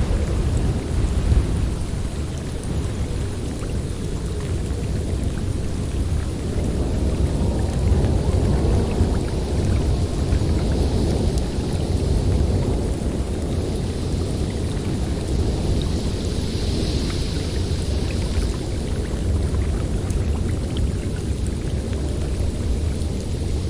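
Snowstorm wind blowing hard and steadily, a deep continuous rumble with rushing gusts. The wind brightens and swells into a higher hiss twice, about ten and about sixteen seconds in.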